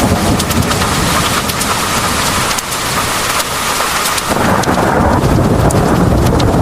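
Heavy rain pouring, with many sharp ticks of drops striking a hard surface, over a deep low rumble. The rumble drops away in the middle and comes back abruptly a little past four seconds in.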